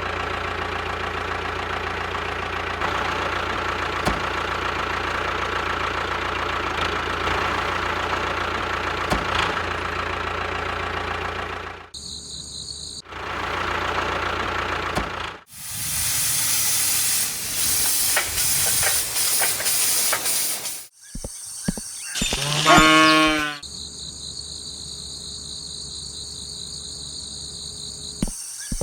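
Steady mechanical noise, then, after several abrupt cuts, a cow moos once in one long pitched call; another moo begins near the end.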